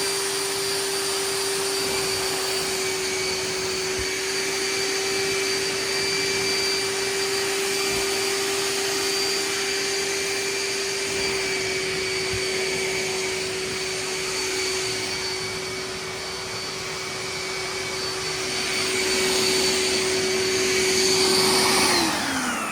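Hoover S6755 wet/dry vac's motor running steadily with a constant whine and suction hiss while it picks up water from a soaked rug. Near the end it is switched off and the whine falls in pitch as the motor spins down.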